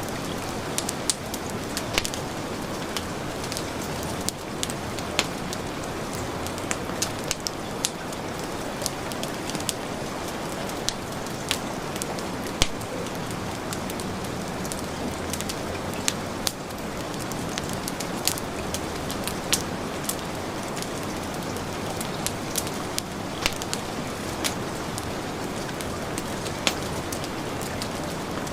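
Steady heavy rain mixed with a crackling wood fire, its sharp irregular pops and snaps scattered over the constant hiss of the rain.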